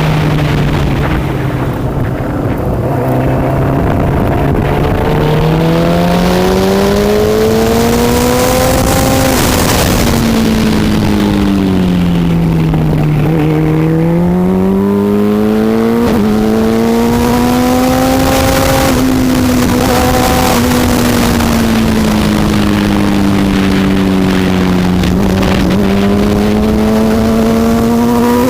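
Superbike racing motorcycle engine running hard and loud, its pitch rising and falling several times as it accelerates and backs off.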